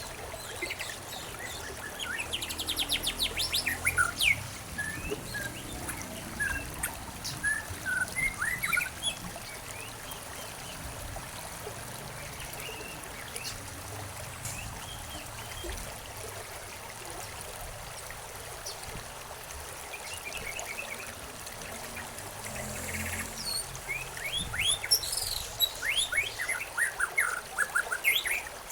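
Several songbirds chirping and trilling in quick bursts over a soft, steady background hiss, probably trickling water, with a quieter stretch of a few seconds mid-way.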